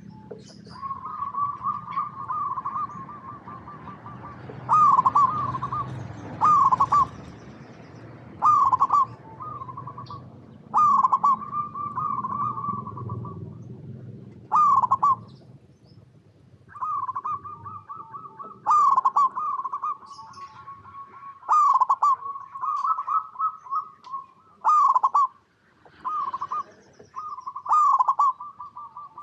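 Zebra dove (perkutut) cooing: a series of rolling, trilled coos, each starting with a sharp note and running on in a quick warble, repeated a dozen or so times with short gaps. Thin, short high chirps from another small bird sound above them.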